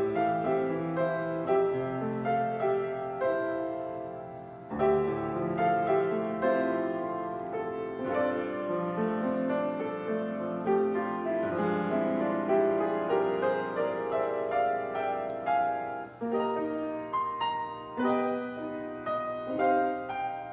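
Piano playing an instrumental piece of held chords and melody. The music fades a few seconds in, then a new phrase begins.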